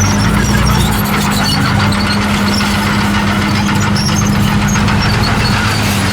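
Komatsu D51PX crawler bulldozer working, its diesel engine running steadily under load, with scattered short high-pitched squeaks over the engine hum.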